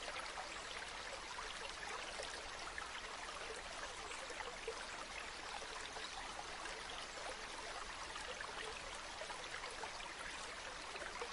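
River water flowing and babbling steadily over stones, an even rushing hiss flecked with small splashes and trickles.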